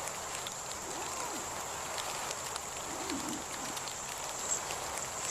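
Steady rain with individual raindrops ticking, under a constant high-pitched whine. A couple of short rising-and-falling calls come about a second in and again about three seconds in.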